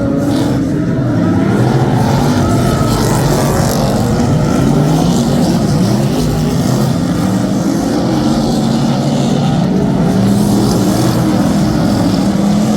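Several superstock race cars' V8 engines running hard together, their pitches rising and falling as they accelerate and back off.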